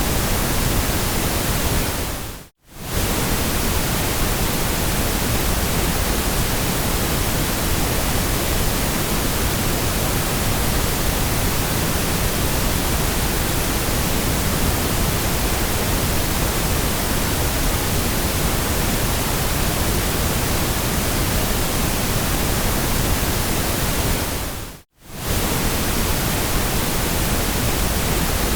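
Steady, even hiss of synthetic white noise spread across all pitches. It dips briefly to near silence and fades back in twice, about two and a half seconds in and again near the end.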